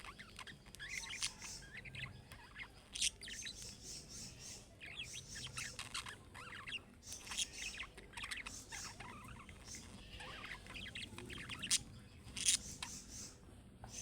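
Budgerigars chattering and warbling continuously, a dense mix of quick chirps and twittering, with a few sharp clicks, the loudest about three seconds in and near the end.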